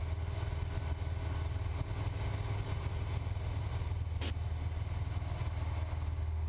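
Cessna 172's piston engine droning steadily in the cockpit during a steep turn, heard as a low hum through the intercom recording. There is one brief click a little past four seconds in.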